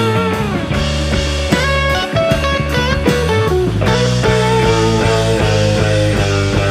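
Live rock band playing an instrumental passage: electric guitars over bass and a drum kit, with no singing.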